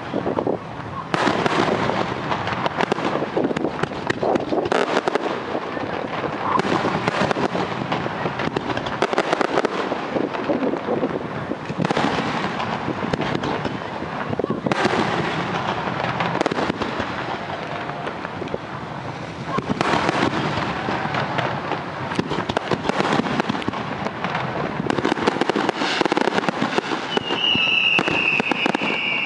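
Fireworks display: a continuous barrage of aerial shells bursting and crackling, with a high whistling tone near the end.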